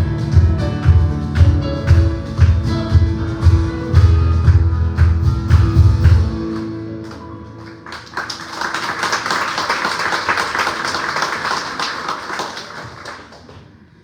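Live band music with a heavy bass beat and guitar ends and fades out. A second or so later the congregation applauds for about five seconds, and the clapping dies away near the end.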